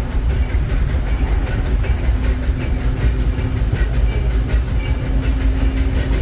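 Narrow-gauge steam train heard from on board a passenger car while rolling along the track: a steady low rumble with the wheels clicking over the rails and a constant low hum.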